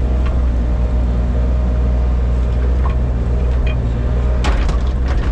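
Excavator's diesel engine running steadily while the tilt bucket digs out soil, with a short cluster of knocks about four and a half seconds in.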